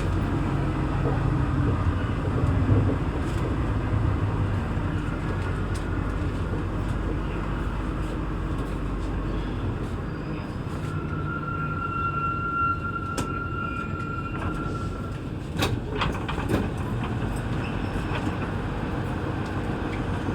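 Interior of a Santiago Metro NS-16 train pulling into a station. The low running rumble dies away about halfway through as the train comes to a stop, then the standing car hums. A thin steady tone sounds for a few seconds, and a few sharp knocks come near the end.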